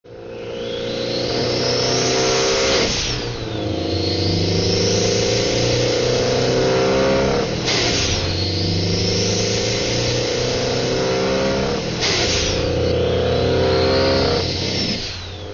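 Turbocharged four-cylinder engine of a modified Mitsubishi Lancer Evolution accelerating hard through the gears. The turbo whine and engine note rise together for about four seconds, then drop sharply at each upshift, four times in all.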